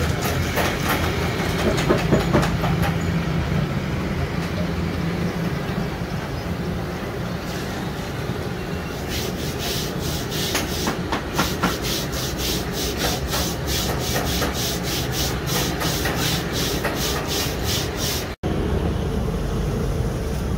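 A machine runs steadily with a low hum. About nine seconds in, a quick, even series of strokes, about three a second, joins it and stops shortly before a brief dropout near the end.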